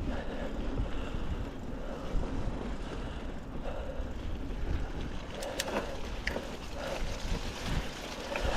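Norco Storm mountain bike being ridden through mud: steady rumble of tyres on the wet trail, with a few sharp clicks or rattles from the bike a little past the middle.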